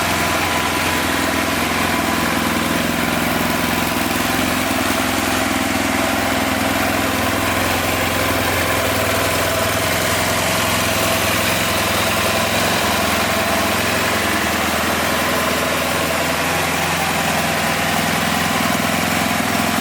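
BMW F800ST's 798 cc parallel-twin engine idling steadily.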